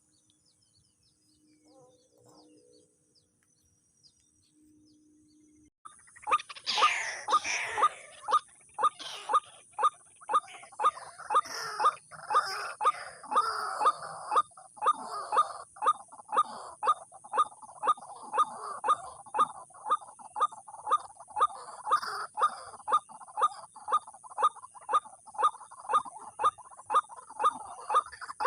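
White-breasted waterhen calls ('wak-wak'): after a quiet start, a loud run of harsh croaking notes begins about six seconds in and repeats steadily about twice a second, with a steady hiss under it.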